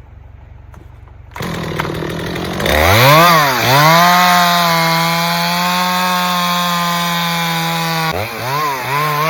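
Two-stroke chainsaw revved up to full throttle and held there for about four seconds, cutting through wood, with the pitch sagging slightly under load. It then drops back and is blipped twice near the end.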